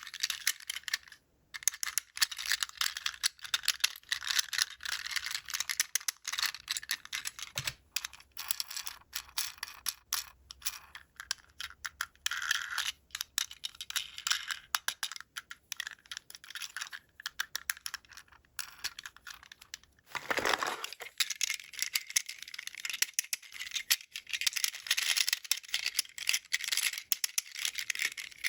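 Plastic toy packaging and small toy parts being handled: dense crinkling, rattling and small clicks, with one longer rasp about two-thirds of the way in.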